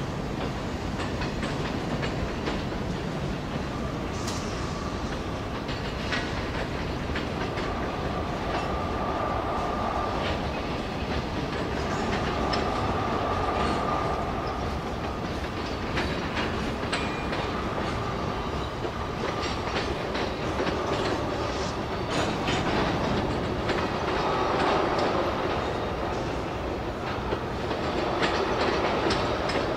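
Freight train of covered hopper cars and tank cars rolling past: a steady rumble with the clicking of wheels over rail joints, and a thin high whine that comes and goes.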